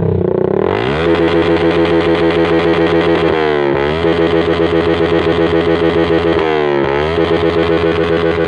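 Yamaha Vixion's single-cylinder four-stroke engine, breathing through an aftermarket racing exhaust, being revved hard. The revs climb and are held high, with the level pulsing a few times a second. They drop briefly and climb again twice, then start to fall near the end.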